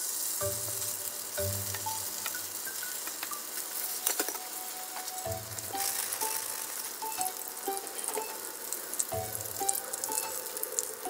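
Spring rolls shallow-frying in hot oil in a frying pan: a steady, dense sizzle that starts suddenly, with a few sharp clicks about four seconds in and near the end.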